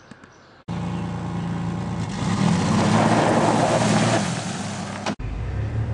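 A motor vehicle engine running, coming in abruptly about a second in and getting louder a couple of seconds later, then cutting off suddenly near the end.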